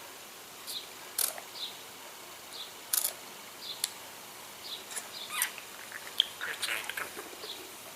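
Budgerigar chirping and twittering softly in short, scattered calls, with a few sharp clicks in between.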